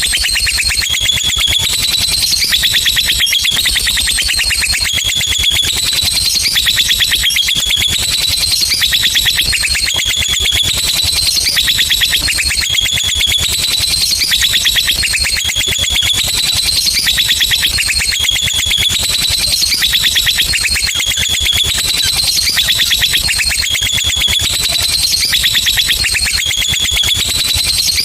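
Lovebird giving a long, unbroken ngekek song: a very rapid, high-pitched chattering trill that steps up and down in pitch about once a second without a pause.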